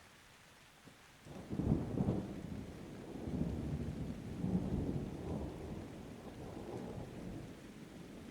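Thunder over steady light rain: a low rumble breaks in suddenly about a second in, swells again midway, and rolls away slowly toward the end.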